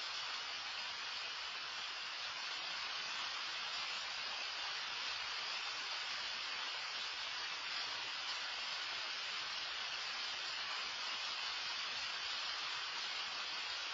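Loud rain falling steadily, an even hiss that doesn't change.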